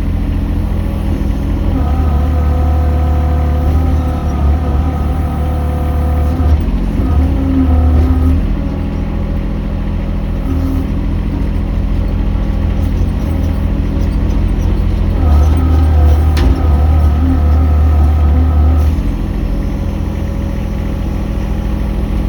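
Mini excavator engine running steadily, working harder in two stretches, about two seconds in and again past the middle, when a whine of several steady tones rises over it.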